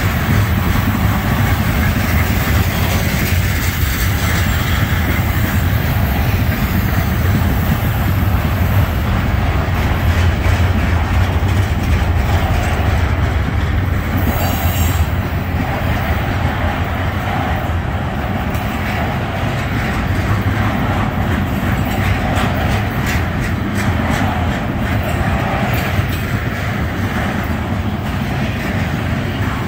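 Garbage train's freight cars, loaded with trash containers, rolling past. The steel wheels rumble steadily on the rails, with a continuous clatter as the trucks pass over the track.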